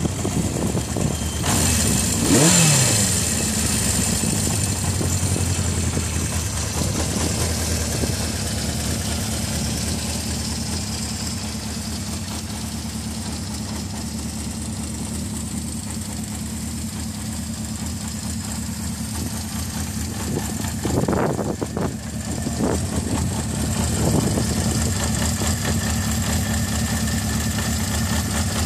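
1975 Honda CB550F's air-cooled inline four-cylinder engine, just started, revved once about two seconds in, then idling steadily. Two short throttle blips come near the end.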